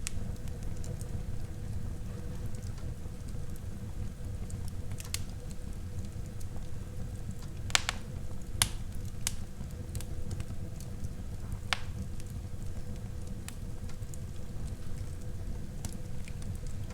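Wood fire burning in a fireplace: a steady low rumble of the flames with scattered sharp crackles and pops, the loudest a few pops about eight seconds in and another near twelve seconds.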